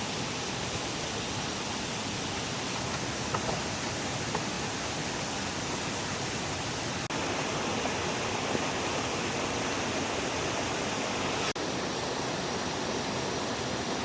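Steady rushing of flowing stream water, a constant even noise that drops out for an instant twice.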